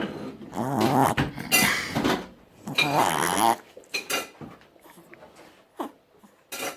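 Dog snoring: two long, loud snores, the first about a second in and the second around three seconds in, followed by softer breathing noises.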